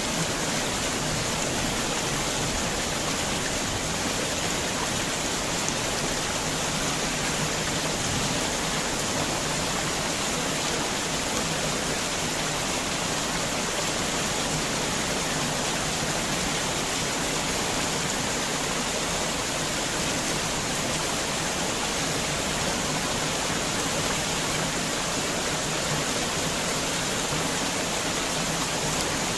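Heavy rain falling steadily, a dense even hiss with no thunder or separate drops standing out.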